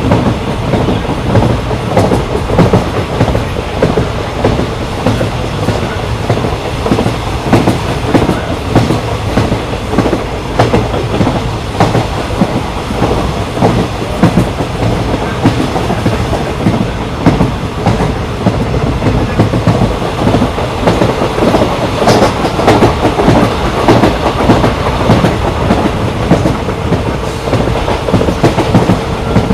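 Steady rumble of a passenger train running at speed, with wheels clattering over rail joints in quick irregular clicks.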